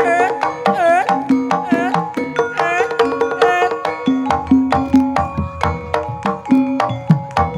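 Banyumasan-style Javanese gamelan music: steady pitched metallophone notes over fast, even kendang hand-drumming, with repeated drum strokes that swoop in pitch.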